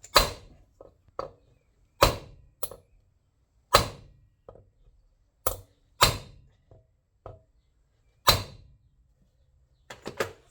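Hammer blows on a seized Tecumseh four-stroke lawnmower engine as it is being forced to free up: six hard, ringing knocks with several lighter taps between, a second or two apart.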